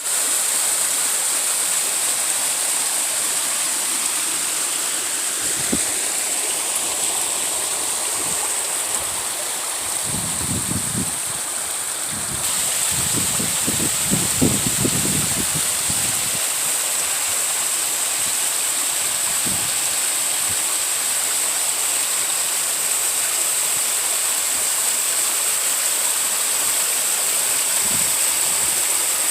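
Waterfall rushing in a steady, unbroken roar of water. A few low rumbles come and go around the middle.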